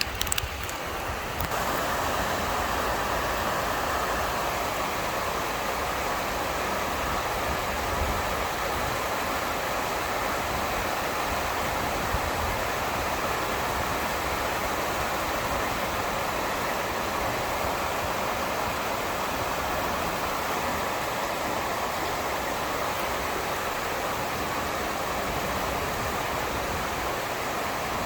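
Heavy rain pouring steadily, a constant hiss that grows louder about a second and a half in.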